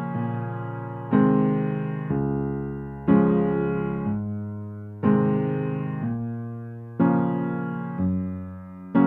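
Slow, soft piano-style keyboard music: chords struck about once a second, each left to ring and fade before the next.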